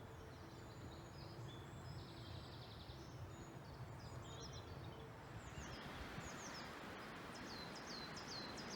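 Faint woodland birdsong over a steady background hiss. It has scattered chirps, then from about halfway through a bird repeating quick, high, downward-sliding notes several times.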